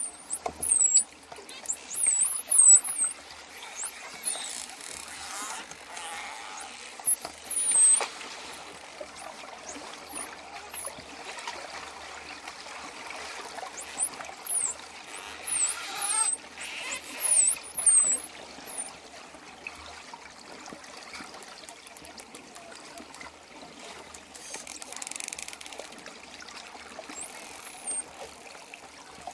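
Dolphins whistling: clusters of short, very high-pitched gliding calls over a steady wash of water, thinning out and mostly stopping in the last third.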